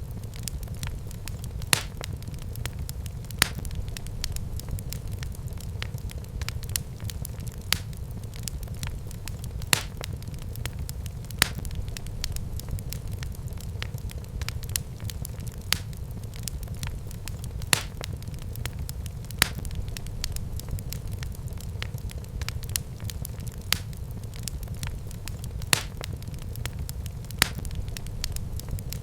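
Wood fire burning in a fireplace: a steady low rumble of flames with constant small crackles and sharp pops about every two seconds.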